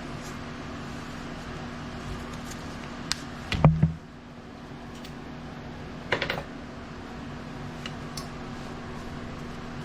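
Hand tools and metal engine parts clicking and knocking during disassembly of a small OHV engine: a quick cluster of clicks with a dull thud about three and a half seconds in, and a shorter rattle of clicks about six seconds in, over a steady background hum.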